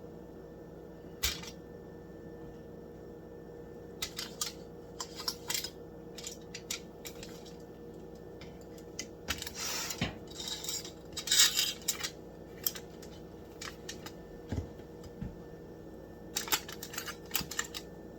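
Kitchen handling sounds as bacon-wrapped chicken pieces are set onto a non-stick baking pan: scattered light clicks and knocks, with two short hissing rustles partway through.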